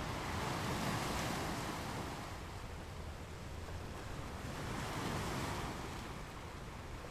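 Sea waves splashing and washing against the hull, swelling twice, about a second in and again about five seconds in, over a steady low rumble of wind on the microphone.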